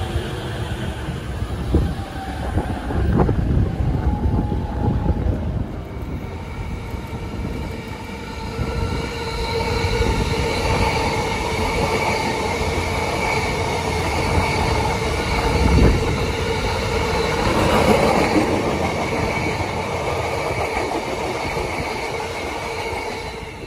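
Electric trains at speed on the rails. Early on, wheels click over rail joints. From about six seconds in, an E259 series Narita Express runs past, its rumble carrying a steady whine of several held tones, with another sharp wheel click near the middle.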